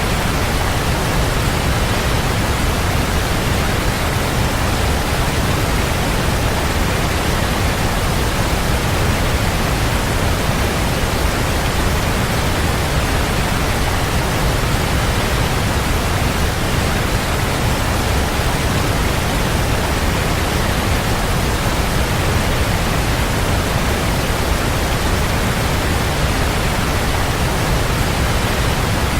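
Waterfall rushing: a steady, even roar of falling water, heaviest in the low end, with no breaks or single splashes.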